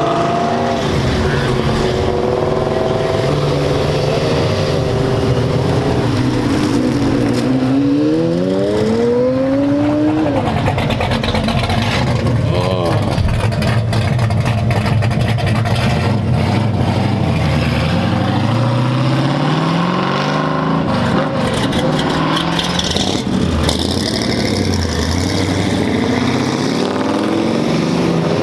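Car engines running and revving. About eight seconds in, one engine climbs steeply in pitch and then drops off; later, other engines rise and fall in pitch as they rev and pass.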